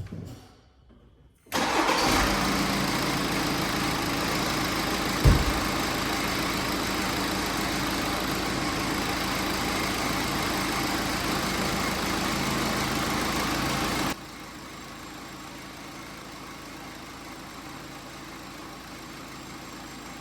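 BMW X5 engine starting about a second and a half in and running steadily, with a short thump a few seconds later. The sound drops sharply in level about fourteen seconds in but keeps running. The owner is chasing a whistle from the accessory belt drive, suspected to come from the water pump or the belt pulleys.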